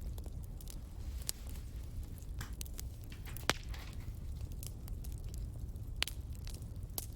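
Wood fire crackling: a steady low rumble under scattered sharp pops, the loudest about three and a half seconds in and again about six seconds in.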